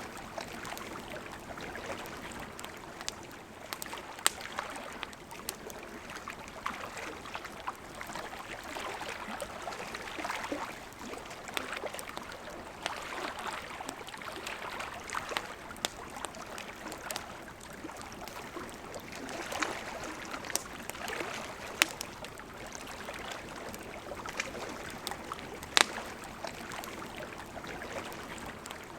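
River water flowing steadily, with a wood campfire crackling over it: frequent small snaps and a few sharp, louder pops, the two loudest in the second half.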